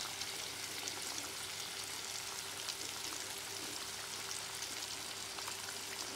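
Tofu pieces deep-frying in a wok of hot oil: a steady sizzle with small crackles and pops.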